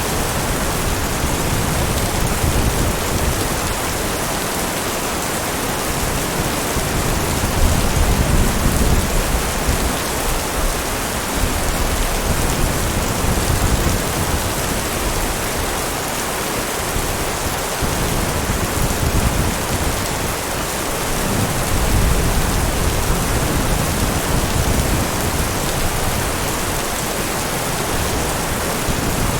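Heavy rain falling steadily, a dense even hiss, with a low rumble swelling and fading a few times underneath.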